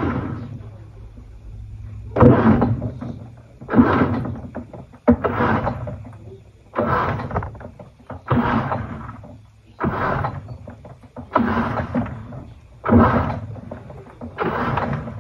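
Panasonic NA-FA80H8 top-loading washing machine with its pulsator turning back and forth, churning the load. Each reversal gives a swishing surge, about one every second and a half.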